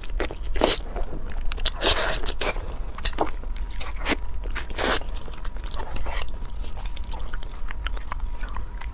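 Close-miked eating sounds: biting into and chewing spicy braised pig's trotter, soft and chewy in texture. There are many short, sharp mouth noises, thicker in the first half and sparser towards the end.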